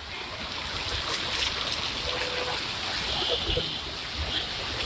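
Steady rush of rain and running water.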